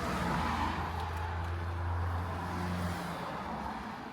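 A motor vehicle passing on a street: a low engine hum with tyre and road noise that swells early and dies away about three seconds in.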